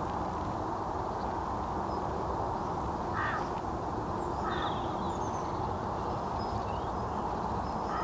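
Birds calling outdoors: two short harsh calls about three and four and a half seconds in, and another at the very end, with a few faint high chirps, over a steady rushing background of wind and flowing water.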